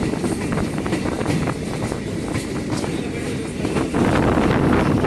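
Passenger train running along the track, heard from its open doorway: a continuous rumble of wheels on rail mixed with wind rushing past, getting louder again about four seconds in.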